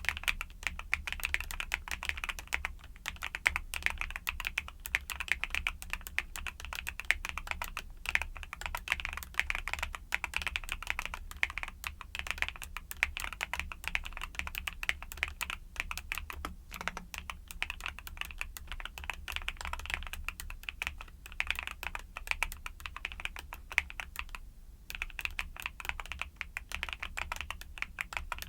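Continuous fast typing on a YUNZII mechanical keyboard with Cocoa Cream switches: a dense run of key clicks, with a brief pause near the end.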